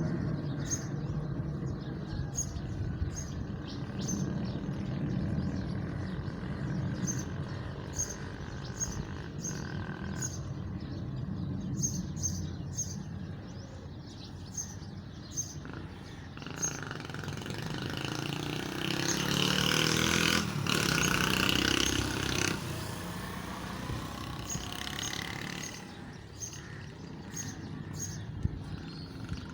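Jet engines of the Antonov An-225 rumbling at a distance, swelling louder for several seconds past the middle and then fading, with birds chirping repeatedly throughout.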